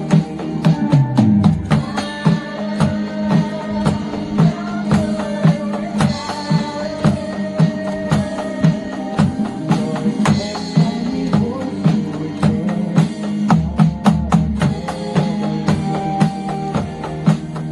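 Drum kit played along to a recorded pop-rock song, with a steady beat of sharp drum and cymbal hits over the track.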